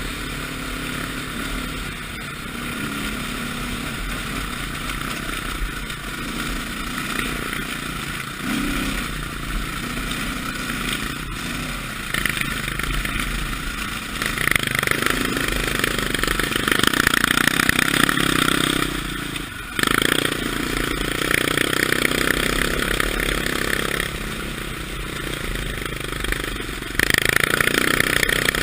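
Dirt bike engine running on the trail, steady at first and then louder in stretches from about halfway through as the throttle opens, with a brief sudden drop in between.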